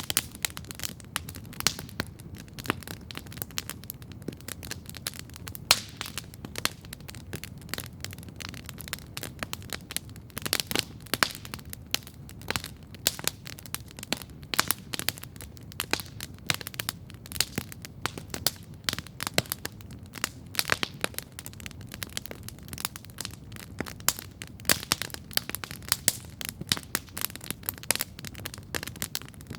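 Wood campfire crackling steadily: many irregular sharp pops and snaps over a low, steady rush.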